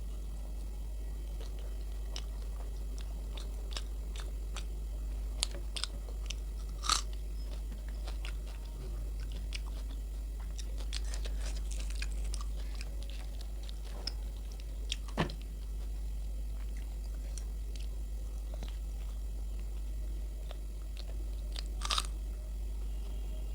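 Close-miked eating sounds: luchi with potato curry being bitten and chewed, with scattered sharp crunches and clicks, a few much louder than the rest. A steady low electrical hum runs underneath.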